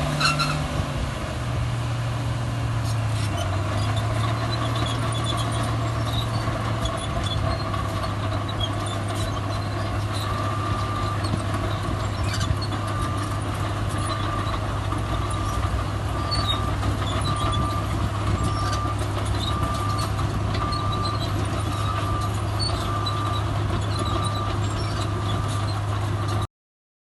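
Heavy diesel earthmoving machinery running steadily, its engine note easing lower in the first few seconds. From about ten seconds in there is a faint, regular beeping. The sound cuts off abruptly near the end.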